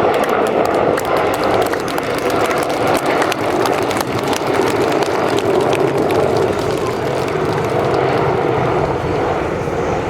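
Mil Mi-26T2 heavy transport helicopter's turbine engines and rotor running in flight: a loud, steady rush of engine and rotor noise with a faint crackle.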